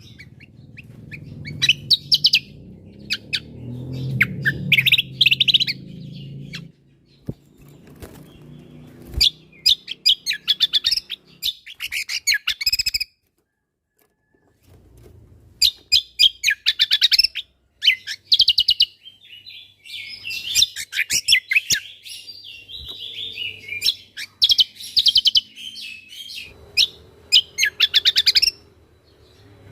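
Cucak kombo singing: repeated bursts of rapid, sharp chirps and trills. The song stops for about a second and a half near the middle, then resumes.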